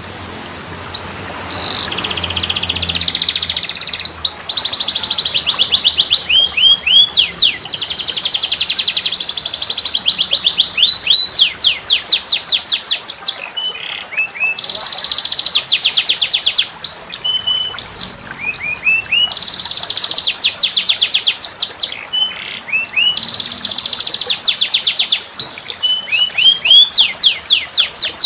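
Songbird song: fast, high trills and rapid runs of sweeping chirps, delivered in repeated phrases of a few seconds with brief pauses between them.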